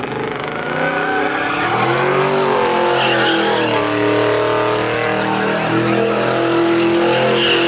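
Vehicle doing a burnout: the engine is held at high revs, its pitch wavering up and down, while the tires squeal on the pavement.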